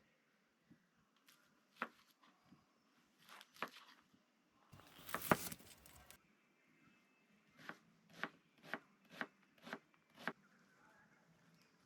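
Knife chopping on a cutting board: a few scattered knocks, a short rustling burst midway, then a run of about six even chops, roughly two a second.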